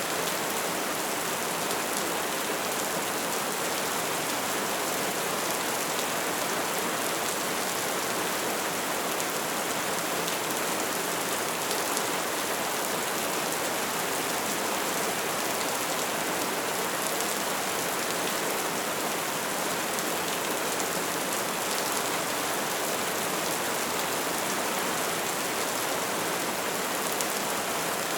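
Wood fire burning steadily: a dense, even hiss with many small crackles and pops.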